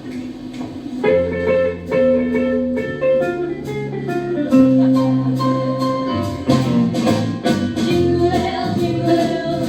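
Band music with a steady beat, striking up about a second in: the opening of a Christmas song medley before the vocal comes in.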